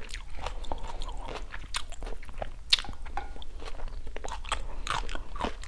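A person chewing food close to a clip-on microphone: irregular short wet clicks and crunches of a mouthful being chewed.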